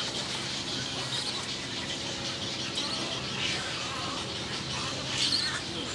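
Birds chirping: a few short, high calls about a second in, midway, and near the end, over a steady low background hum.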